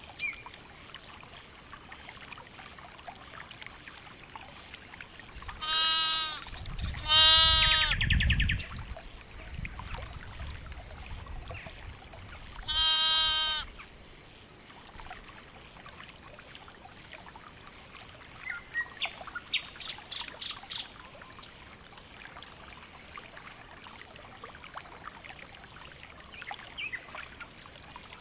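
Barn ambience with sheep bleating three times, two close together about six and seven seconds in and one more around thirteen seconds, over a steady high-pitched thin tone.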